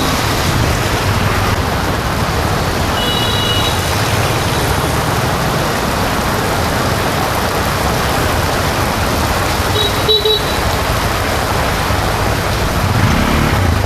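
Steady noise of rain and road traffic, with brief high squeaks about three seconds in and again near ten seconds.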